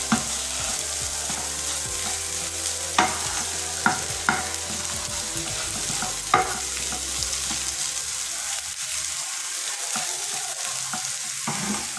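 Masala-coated prawns frying with a steady sizzle in a non-stick pan while a spatula stirs and scrapes them around. A few sharp taps of the spatula on the pan come about three, four and six seconds in.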